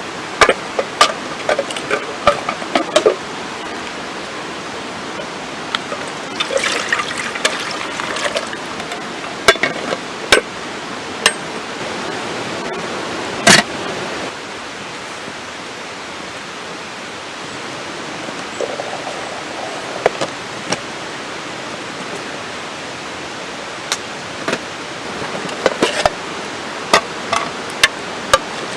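Wood fire crackling, with irregular sharp pops and snaps over a steady hiss; one pop about halfway through is much louder than the rest.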